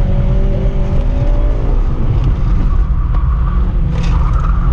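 Car engine running hard under load, heard from inside the cabin during an autocross run, over a heavy low rumble of road and tyre noise. Near the end a higher squeal from the front tyres begins to build as they slide.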